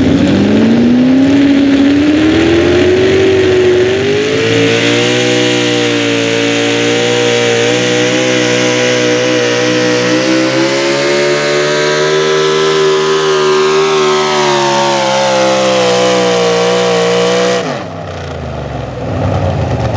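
Pulling tractor's engine at full throttle through a pull: the pitch climbs for the first few seconds, holds high and wavering as it drags the sled, then drops away sharply near the end as the engine is shut down.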